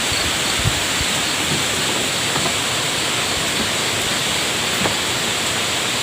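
Strong wind blowing steadily: a constant, even rushing hiss.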